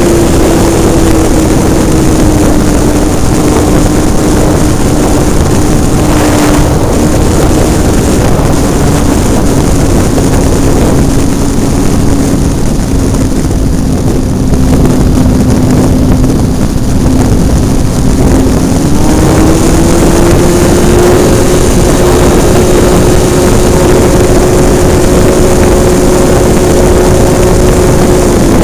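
Hobbistar 60 RC model airplane's engine running in flight, heard from the plane with heavy wind rush over the microphone. Its pitch sags slowly over the first half, climbs back about two-thirds through as the throttle opens, and drops again at the very end.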